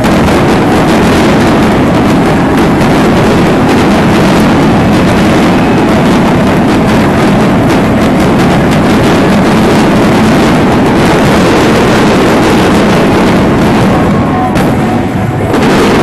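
Dense barrage of aerial fireworks, the bursts coming so fast they run together into one continuous loud crackle and rumble. It eases briefly about fourteen seconds in, then picks up again.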